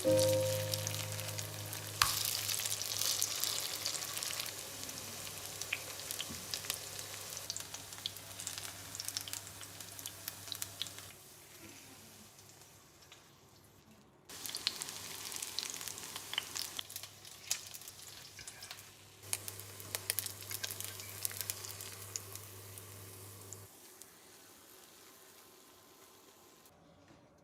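Food sizzling and crackling as it fries in hot oil in a pan, with a sharp knock about two seconds in. The sizzle dies down, starts again loudly about halfway through, then fades away.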